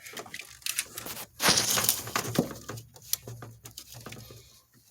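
Hand-handling noise from working on spark plug wires in an engine bay: scattered clicks and knocks, with a louder scrape lasting under a second about one and a half seconds in.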